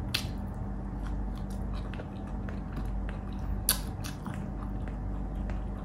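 Close-miked biting and chewing: a person crunching into a long green chili and chewing it with wet mouth clicks, a sharp click just after the start and a louder one a little past halfway.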